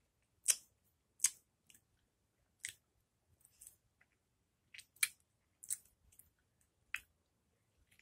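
A person biting, chewing and sucking on slices of raw lemon, making short, sharp wet mouth sounds at uneven intervals, about one a second.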